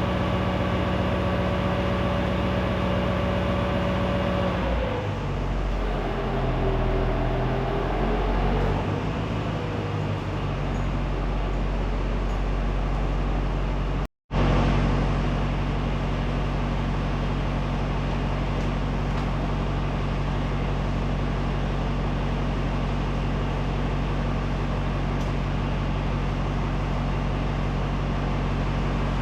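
Boom truck's engine running steadily. Its speed dips and comes back up between about five and ten seconds in. The sound cuts out for an instant about halfway through, then carries on steady.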